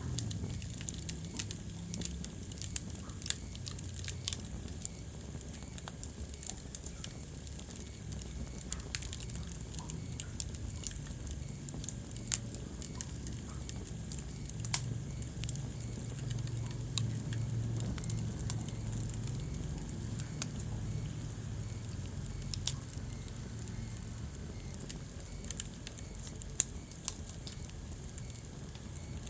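Wood fire burning in a fireplace: irregular sharp crackles and pops, several a second at the busiest, over a steady low rumble of the flames.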